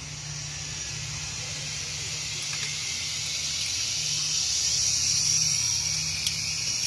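Zipline trolley pulleys running along the steel cable: a steady hissing whir that grows louder for about five seconds as the rider comes down toward the end, then eases slightly.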